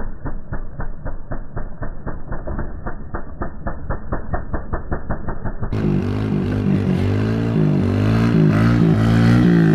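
Small off-road motorcycle engine: first a muffled, even putting of about five beats a second. Then, after an abrupt change in the sound about two-thirds of the way in, the engine is heard clearly, revving up and down and getting louder.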